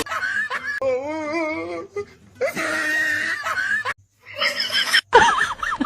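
A person's voice with a quavering, wavering pitch, broken by short pauses.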